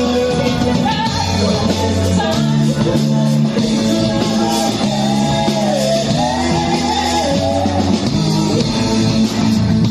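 Rock music with a singing voice over guitar and a bass line that moves between held notes.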